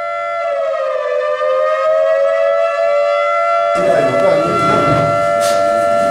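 Emergency warning siren sounding a steady, loud tone, its pitch sagging slightly about a second in and then holding level: the alert for an earthquake drill. About four seconds in, outdoor background noise with voices suddenly joins it.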